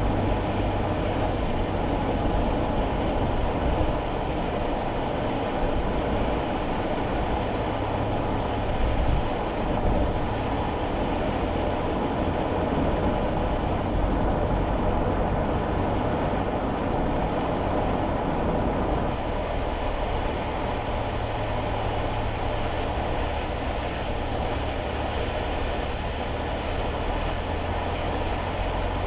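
Steady road noise inside a kei car's cabin while driving on a wet road in the rain: a continuous rumble of tyres and a low engine hum.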